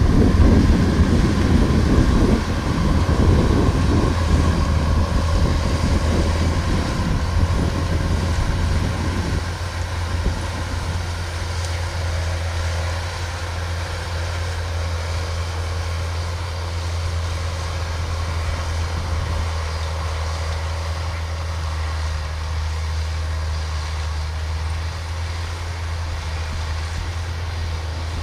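Kubota DC-105X combine harvester's diesel engine running at working speed with a steady drone. Over about the first ten seconds there is extra rough, louder noise, which then settles into a smoother, steady run.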